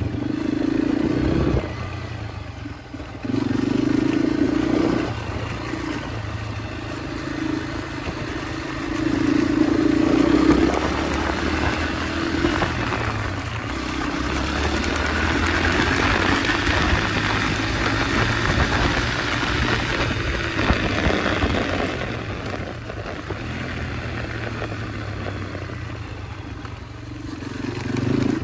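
Yamaha dirt bike engine running while being ridden along a trail, the revs rising and falling with the throttle, loudest about a third of the way through.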